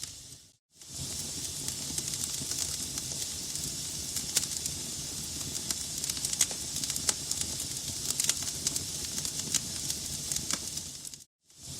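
Wood fire crackling in a fireplace: a steady hiss with many sharp pops from the burning logs. The sound briefly drops out to silence twice, about half a second in and again near the end.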